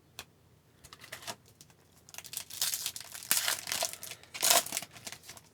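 Foil wrapper of a hockey card pack crinkling and tearing open by hand, a few light ticks first, then about three seconds of rustling bursts, the loudest near the end.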